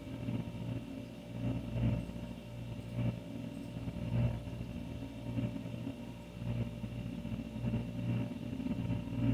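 Older refrigerator running: a steady low hum that swells and eases about every second.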